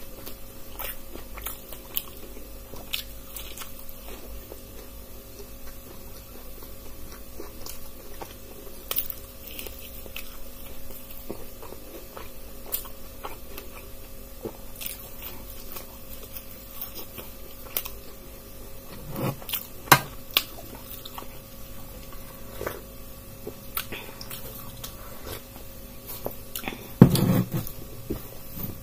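Close-up chewing and crunching bites of fried gram-flour pakoras (potato and chilli fritters), many small crisp clicks throughout. A few louder knocks come about two-thirds of the way in, with a fuller, louder sound near the end, over a faint steady hum.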